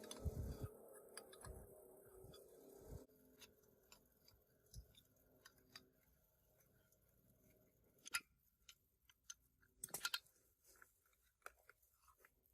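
Near silence, with faint scattered clicks and light taps; the two clearest come about two-thirds of the way through and again a couple of seconds later.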